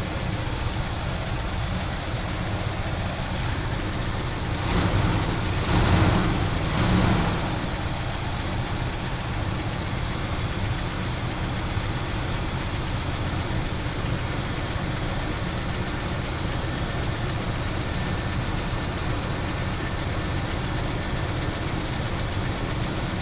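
1976 Chevy Blazer engine with a Holley 600 four-barrel carburetor idling steadily after a fuel transfer tube install, running fine. Three short swells in loudness come about five to seven seconds in.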